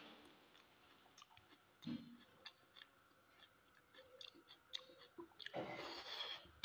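Faint chewing with small scattered mouth clicks from a person eating by hand, a brief thud about two seconds in and a louder stretch of noise near the end.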